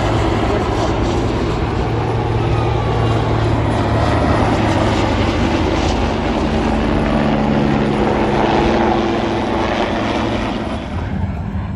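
Aircraft flying over: a loud, steady engine drone with a low hum, easing off slightly near the end.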